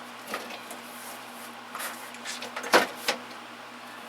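A few sharp metallic clacks and knocks of large sockets being handled and set down, the loudest a little under three seconds in, over a low steady hum.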